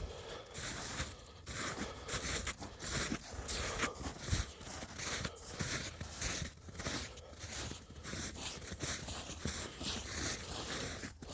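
Footsteps crunching in snow at a steady walking pace.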